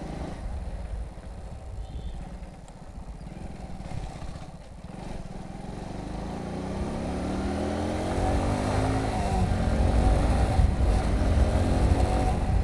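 Motorcycle engine running at low speed, then accelerating from about six seconds in, its pitch rising and the sound growing louder toward the end.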